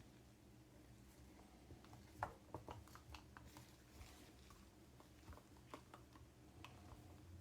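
Faint handling noises: a scatter of small clicks and soft squishes from hands working a silicone mould and setting resin, the sharpest click about two seconds in, over a low room hum.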